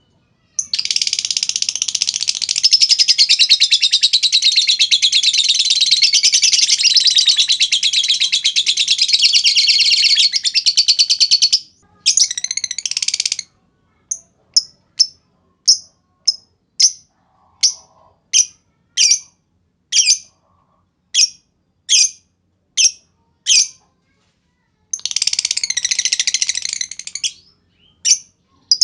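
Lovebird ngekek panjang: a long, rapid, unbroken high chatter lasting about eleven seconds, then a shorter burst. After that comes a run of single sharp chirps, roughly two a second, and another chattering burst near the end.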